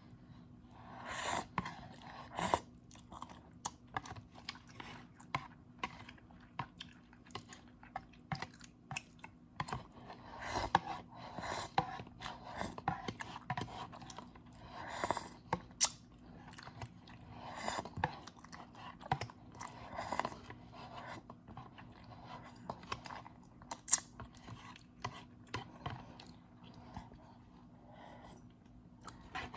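A person chewing instant noodles close to the microphone, with many small wet mouth clicks and smacks and repeated swells of eating noise.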